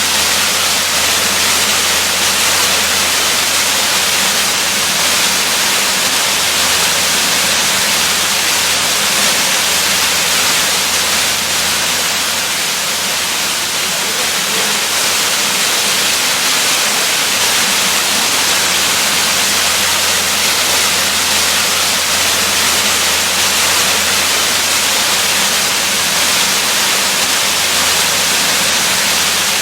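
Waterfall: a steady, even rush of falling water, strongest in the upper range, with a steady low rumble beneath.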